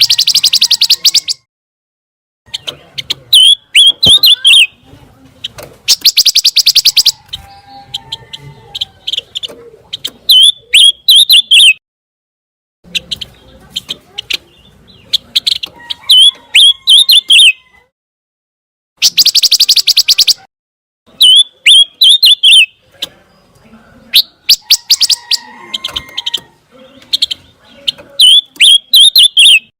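Pancawarna bird song: phrases of sharp chirps and whistles repeated over and over. Three times, a rapid buzzy trill lasts about a second and a half, and short silent gaps fall between the phrases.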